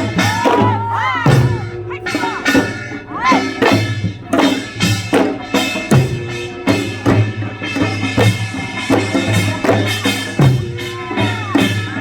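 Korean folk music played with drums: regular drum strokes under a melody whose notes bend and glide in pitch.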